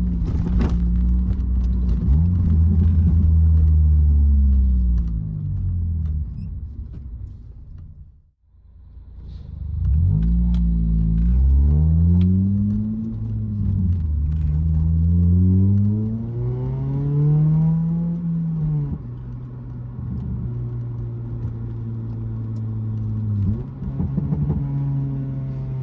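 Honda K20Z1 2.0-litre four-cylinder engine breathing through an Invidia N1 catback exhaust as the car is driven. The revs climb twice with a drop between, then the engine settles into a steady cruise. The sound cuts out briefly about eight seconds in.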